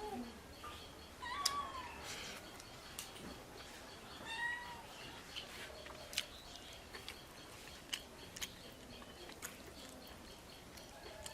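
A cat meowing a few times with short rising-and-falling calls, mixed with scattered sharp clicks.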